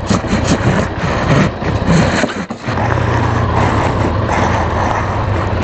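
Motorcycle engine idling in the cold. For the first couple of seconds it is mixed with scraping and brushing as snow is cleared off the bike.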